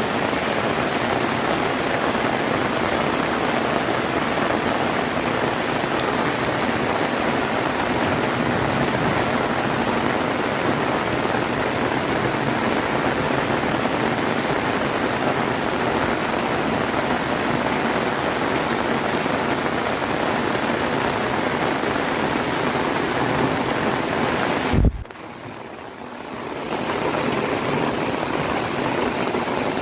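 Heavy rain pouring down steadily. About 25 seconds in, a brief low thump is followed by the sound dropping away for a second or two before the rain returns at full strength.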